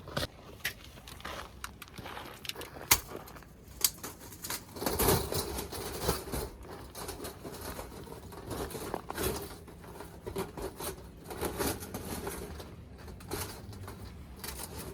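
Irregular clicks, knocks and scraping rustles, like small objects being handled, with a busier stretch about five seconds in.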